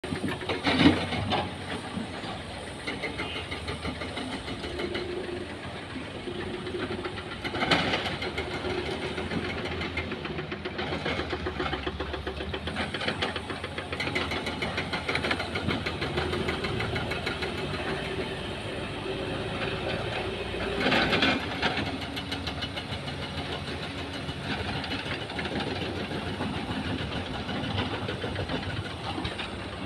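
Heavy diesel engines of a dump truck and an excavator running with a rapid clatter. The sound briefly surges louder about a second in, again about eight seconds in, and again around twenty-one seconds in.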